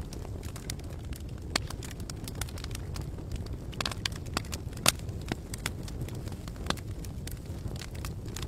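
Campfire burning, with irregular sharp crackles and pops over a steady low rumble. The loudest pop comes about five seconds in.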